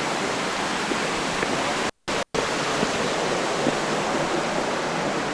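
Steady, loud rushing noise that cuts out to silence twice, briefly, a little after two seconds in.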